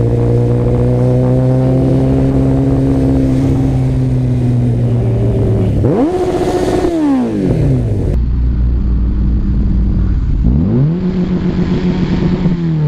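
Kawasaki Ninja ZX-14R inline-four motorcycle engine heard from the rider's seat: a steady engine note, a sharp rev about six seconds in that falls away to a low idle, then rising again near the end as the bike pulls away.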